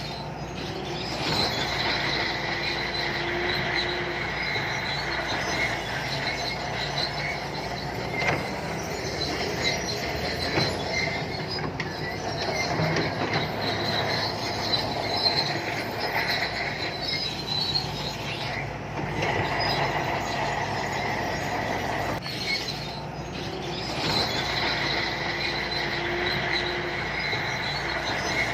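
Shantui crawler bulldozer working, its diesel engine running steadily under load while the steel tracks squeal and clank.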